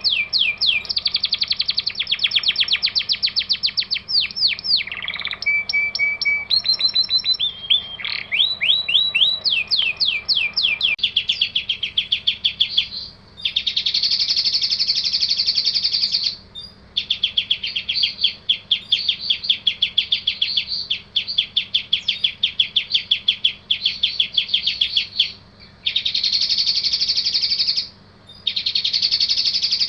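Songbird song recorded as masteran, a tutor recording for competition songbirds: fast runs of high, sweeping chirps and buzzy trills in phrases a few seconds long, separated by short breaks.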